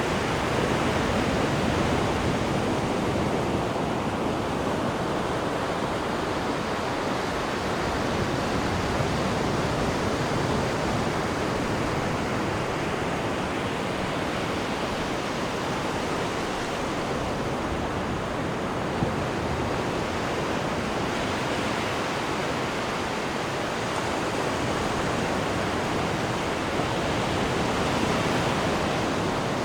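Steady rush of sea water churning off the stern of a cruise ship, swelling and easing gently in loudness.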